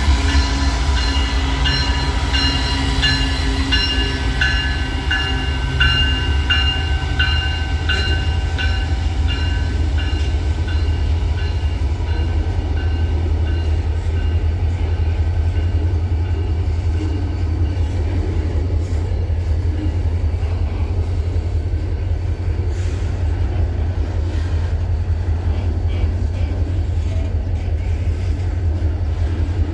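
Freight train at a rail yard: a diesel locomotive's deep, steady rumble, with a high-pitched pulsing squeal over it for the first ten seconds or so that then fades.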